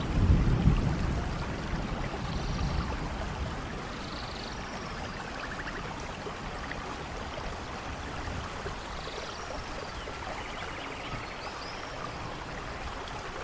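Steady rain in a rainforest thunderstorm, with a low rumble of thunder at the start that fades over the first few seconds. Faint short animal chirps and rasping trills sound now and then over the rain.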